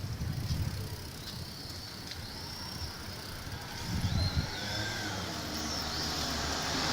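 Wind and road rumble from riding a bicycle along a city street, swelling about four seconds in, with faint high gliding squeaks in the middle.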